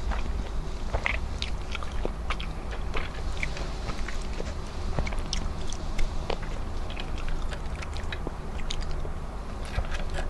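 A person chewing food close to the microphone, with many short wet mouth clicks and smacks, over a steady low hum.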